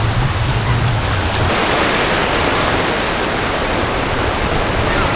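Steady roar of ocean surf and wind on the shore, an even rushing noise with no breaks.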